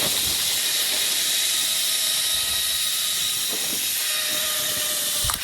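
Zip-line trolley running along a steel cable: a steady whirring hiss with a faint whine. A short thump comes just before the end.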